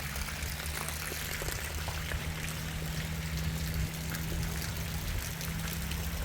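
Heavy rain falling steadily, a dense hiss with many small drop impacts, over a steady low hum.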